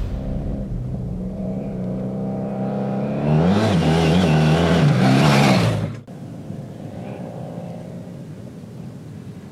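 BMW F 800 GS Adventure's 798 cc twin-cylinder engine revving as the motorcycle approaches and passes close by, its pitch rising and falling with the throttle, loudest about four to five seconds in. The sound cuts off suddenly about six seconds in, leaving only a faint, distant engine sound.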